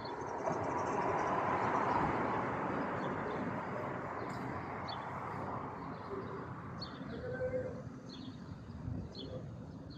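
Aircraft engine noise that rises to a peak about two seconds in and then slowly fades away, with short bird chirps throughout.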